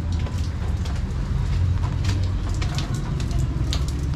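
Rain falling, with many scattered sharp drop hits, over a steady low rumble.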